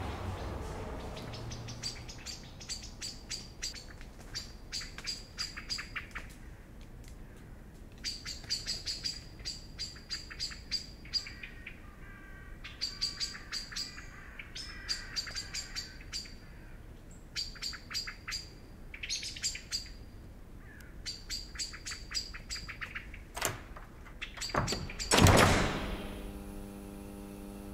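A bird chirping in rapid trills, about a dozen short bursts of quick sharp notes, each lasting about a second with pauses between. Near the end a loud whoosh swells up and gives way to a steady low hum of several tones.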